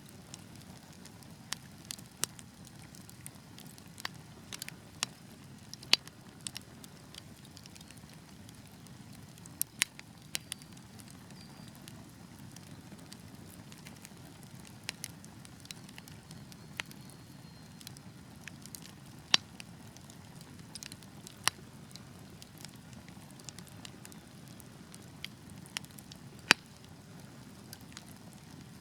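Wood fire burning with a steady low rush and irregular sharp crackles and pops from the logs, a few of them much louder than the rest.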